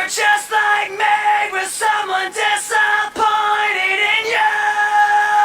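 Solo unaccompanied singing voice, an isolated lead vocal, singing a run of sliding, broken vowel phrases and then holding one long steady note from a little past four seconds in.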